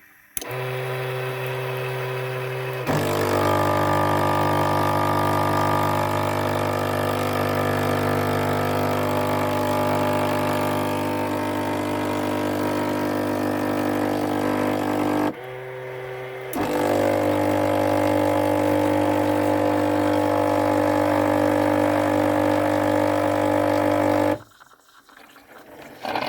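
Krups FPB145000P coffee machine's water pump buzzing steadily as water is pushed through the repaired water circuit. It gets louder about three seconds in, dips briefly about fifteen seconds in, and stops near the end.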